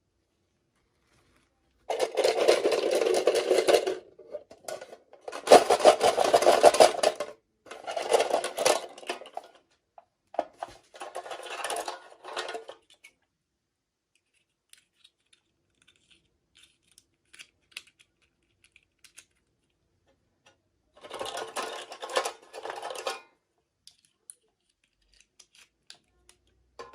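Plastic toy packaging crinkling and rustling as it is handled and opened, in five separate spells of one to two seconds each, with silence and a few faint ticks in between.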